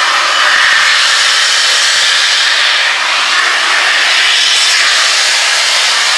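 Peppercorn A1 steam locomotive 60163 Tornado letting off a loud, steady hiss of escaping steam.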